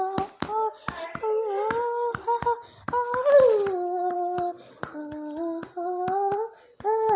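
A child's voice humming a wordless melody in long held notes that glide between pitches, over a sharp percussion beat.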